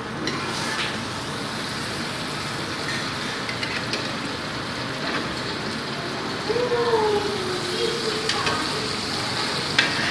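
Chicken with spices and vegetables frying and sizzling in a pan, stirred with a spatula that scrapes and clicks against the pan now and then. A brief wavering call sounds in the background about two-thirds of the way through.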